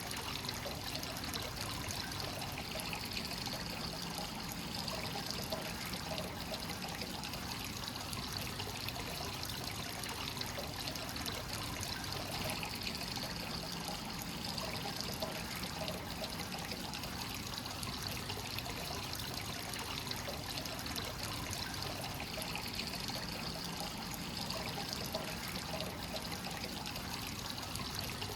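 Hot spring water pouring and trickling steadily into a bath from a free-flowing source spout.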